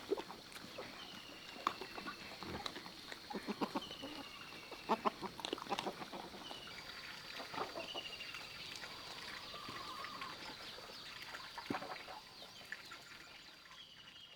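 Chickens: short falling peeping calls repeated every second or two, over scattered sharp clicks and knocks.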